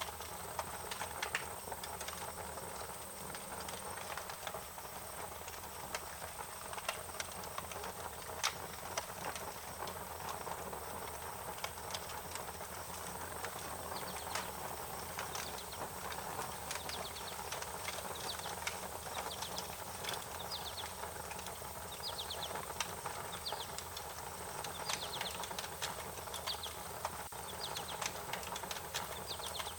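Wood fire crackling, with irregular sharp pops over a steady hiss. From about halfway, a small bird chirps in short repeated high notes.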